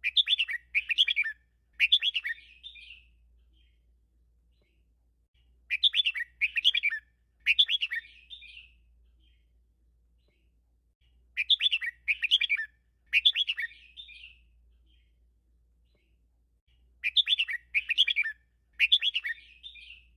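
Red-whiskered bulbul singing a 'teacher' song in the doubled style kept by Thai bulbul fanciers. The same phrase comes four times, about every six seconds: three quick, loud note clusters and then a softer trailing warble.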